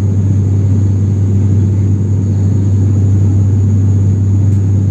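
Steady low engine rumble with a deep drone, heard from inside a passenger aircraft's cabin.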